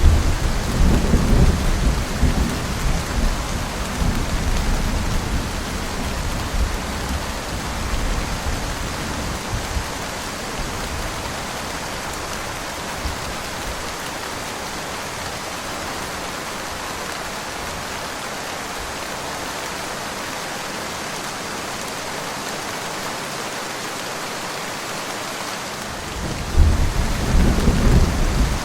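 Steady heavy rain with a roll of thunder that rumbles in at the start and dies away over about ten seconds, then a second rumble of thunder near the end.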